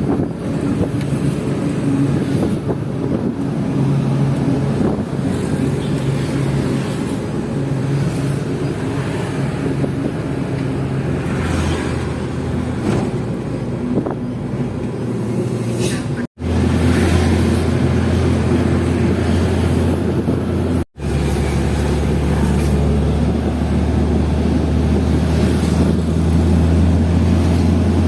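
Hino FL 260 JT truck's six-cylinder diesel engine running under load as a steady drone. It cuts out briefly twice past the middle, then comes back louder and deeper.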